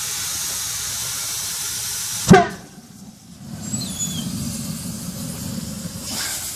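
Steady hiss, then about two seconds in a single loud bang as ether ignites inside a log truck tire and blows the bead onto the rim. A low rumble of the burning ether follows.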